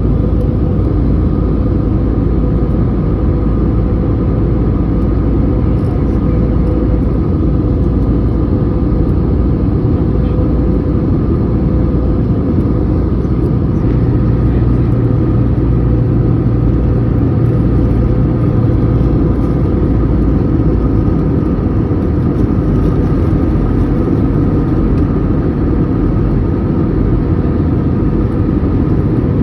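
Steady airliner cabin noise heard from a window seat: jet engines and rushing air making a loud, even roar with a constant hum in it. A lower drone joins for about five seconds midway.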